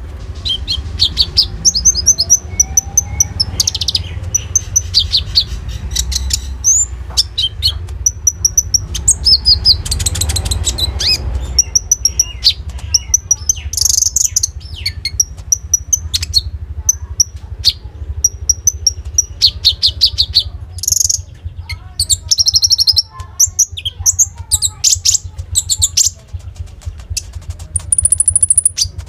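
A konin (brown-throated sunbird) singing non-stop, a fast run of high chirps, ticks and trills, over a steady low hum.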